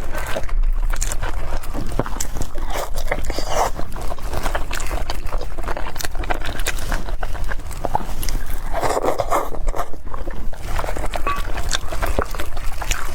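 Close-miked eating: a dense run of quick wet mouth clicks and smacks while chewing soft food, with a thicker bite-and-chew sound about nine seconds in.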